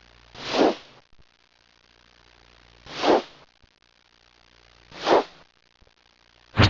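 A short hissing whoosh repeated four times, about every two seconds, each burst brief and without pitch: an added comic sound effect.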